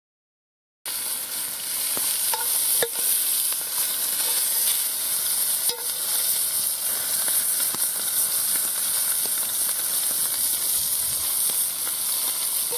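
Minced meat sizzling as it browns in a pan over a campfire, a steady frying hiss with a few small crackles and pops. It starts suddenly about a second in.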